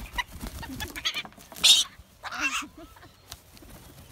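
Pet parrots giving harsh, raspy screeches: a loud one about a second and a half in and a second, shorter one just after two seconds.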